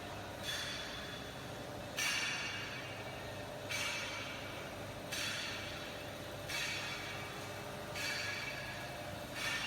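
Roll forming machine line running with a steady low hum, and a sudden hiss about every one and a half seconds that fades within a second.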